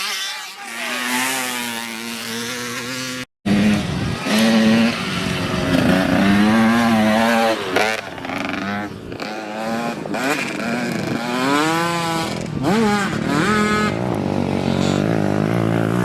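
Dirt bike engines revving hard, their pitch climbing and falling again and again with the throttle. The sound cuts out completely for a moment a little after three seconds in.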